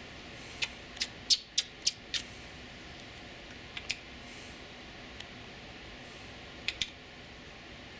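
A scattering of short, sharp clicks: a quick run of about five around one to two seconds in, then pairs near four and seven seconds, over a faint steady hiss.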